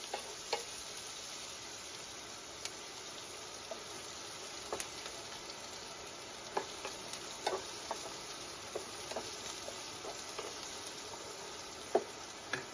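Chopped onions sizzling steadily in hot mustard oil in a nonstick frying pan, being lightly sautéed. Scattered clicks and scrapes of a wooden spatula stirring them, the loudest near the end.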